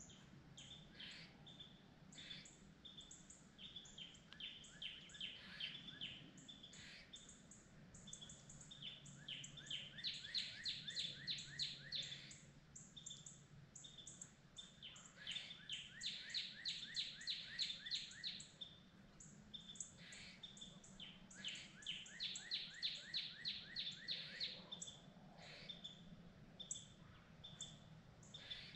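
A songbird singing: several bouts of about three seconds each, every bout a fast series of down-slurred notes, with scattered single chirps between the bouts over a faint low background rumble.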